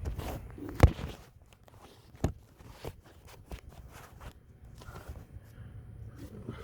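Starter of a hot 2008 Ford Edge being tried: a sharp click about a second in and another about a second and a half later, then fainter ticks, with no engine starting. It is the sign of a faulty starter that spins but whose drive pinion won't engage once the engine is hot.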